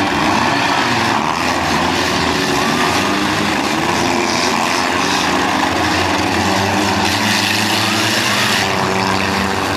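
Several demolition derby cars' engines running at once, a loud, steady din.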